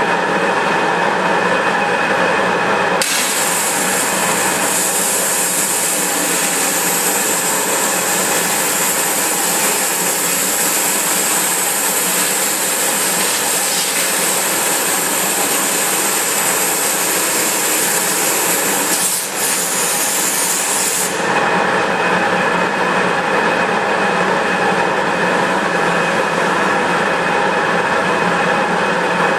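Flow CNC waterjet machine drilling raw glass: steady loud machine noise with a few steady tones. A high hiss from the jet comes in about three seconds in, breaks briefly near nineteen seconds and cuts off suddenly about twenty-one seconds in.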